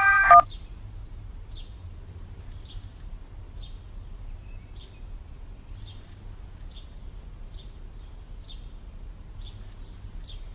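Guitar music cuts off with a click about half a second in. After that, a bird chirps outside over a faint steady room hum: one short, high chirp about once a second.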